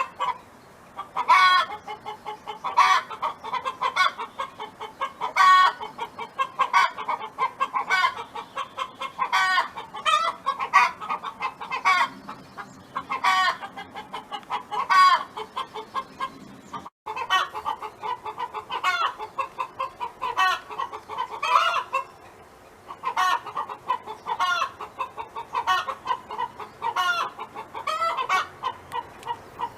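A hen clucking without pause: a run of quick soft clucks broken every second or two by a louder, sharper cluck. This is the drawn-out 'hen song'. The sound cuts out for an instant about halfway through.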